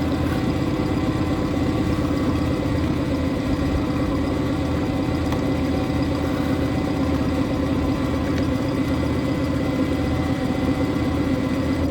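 Boat engine running steadily, an even hum that holds the same pitch throughout.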